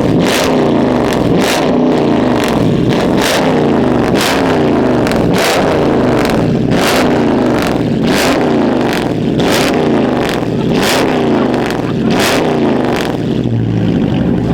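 Car engine revved hard over and over, its pitch climbing and dropping about every two-thirds of a second, with sharp exhaust cracks on the revs.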